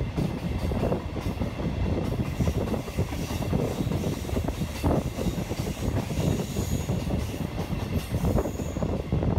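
Trenitalia regional passenger train running along the line, heard from an open window of the coach: a steady rumble of wheels on the rails, with a faint, brief high squeal from the wheels twice near the end.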